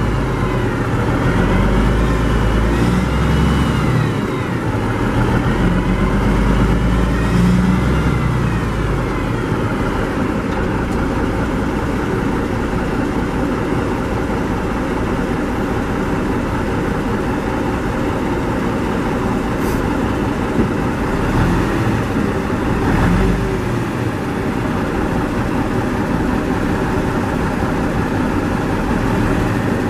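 1984 Freightliner dump truck's Cummins diesel engine running, with its pitch rising and falling twice in the first several seconds as it is revved, then running steadily.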